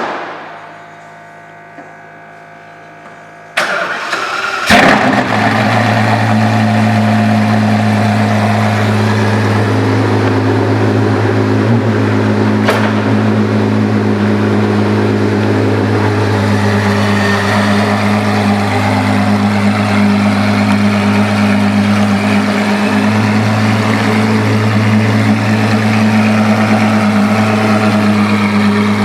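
The Apollo IE's Ferrari-derived V12 being started: after a thump and a faint steady hum, the starter cranks about three and a half seconds in and the engine catches a second later with a sharp blip, then settles into a loud, steady idle.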